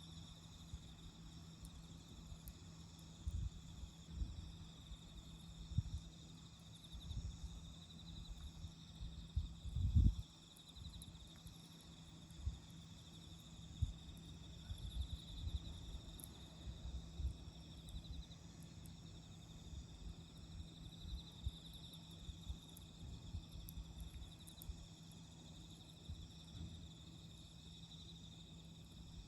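Crickets trilling steadily in a high-pitched chorus, with irregular low thumps and rumbles underneath, the loudest about ten seconds in.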